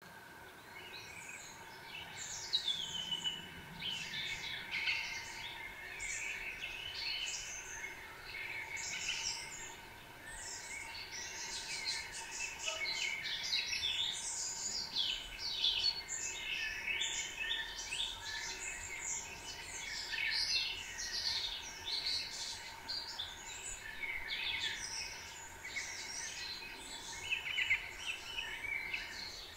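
A dense chorus of many small songbirds chirping and singing, with overlapping quick down-sweeping calls throughout, over a faint steady hum.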